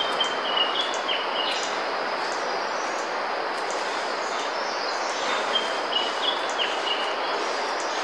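A bird calling: a short phrase of high chirping notes, heard twice about five seconds apart, over a steady hiss.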